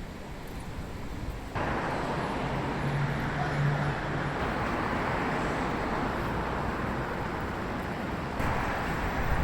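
City street traffic noise: a steady wash of passing vehicles, with a low engine hum for a second or so about three seconds in.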